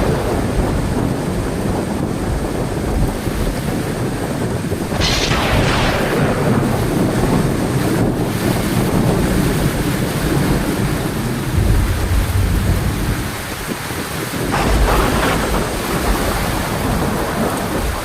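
Heavy rain falling steadily through a thunderstorm. Thunder cracks about five seconds in and again near the end, each trailing off into a low rumble, with more low rumbling in between.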